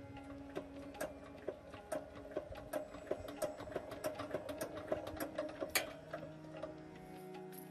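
A quick, uneven run of sharp clicks and taps, several a second, with the loudest one near the end, over faint steady tones.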